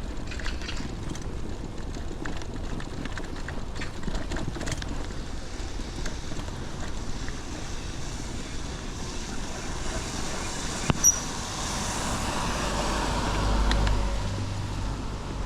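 Steady road and wind noise of riding on wet roads. Two sharp clicks come about two-thirds of the way through, followed by a louder swell with a low rumble as a motor vehicle goes by near the end.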